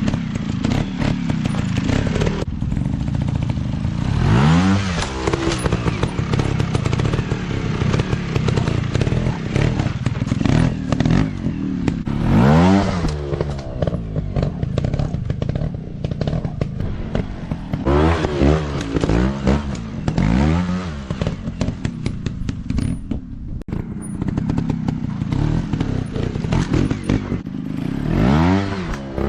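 Dirt bike engines running and revving, the pitch sweeping up sharply several times over a steady running note, with scattered knocks and clatter.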